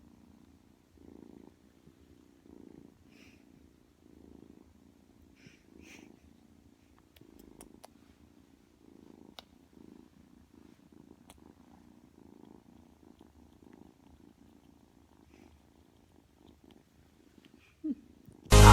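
Domestic cat purring softly in slow, regular cycles, about one breath every second and a half. Loud music cuts in abruptly at the very end.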